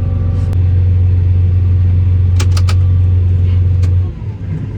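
Steady low drone of a combine harvester running, with a few sharp clicks a little past halfway. The drone drops away suddenly near the end.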